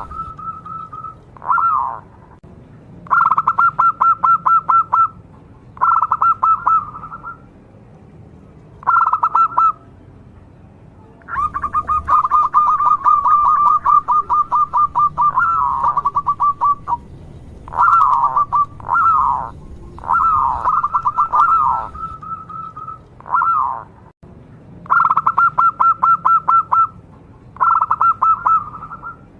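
Zebra dove (perkutut) calling: repeated phrases of fast, staccato cooing notes, each lasting a second or two, with short falling notes between them and brief pauses between phrases. One longer run of notes comes in the middle.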